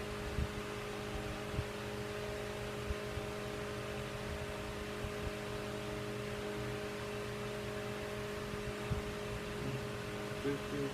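Steady electrical or mechanical hum of shop room tone, with several fixed tones over a light hiss and a few faint knocks.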